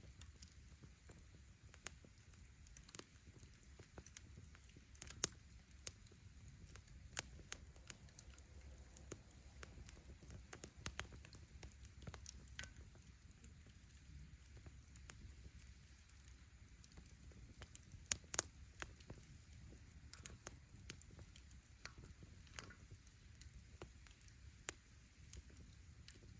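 Firewood burning in a bonfire: irregular sharp crackles and pops over a low, steady rumble of flame, with a quick cluster of the loudest pops about two-thirds of the way through.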